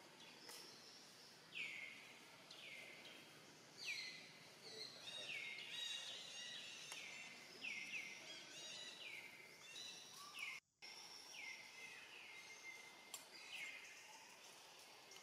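A bird calling over and over, about once a second: each short call slides down in pitch and then holds briefly, over faint outdoor background. The sound cuts out for an instant about two-thirds of the way through.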